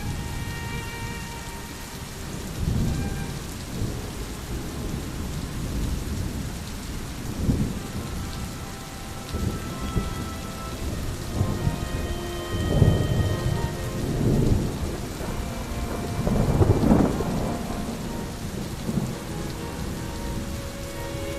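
Steady rain with thunder rumbling in several low, rolling swells, the loudest about two thirds of the way through and again near three quarters.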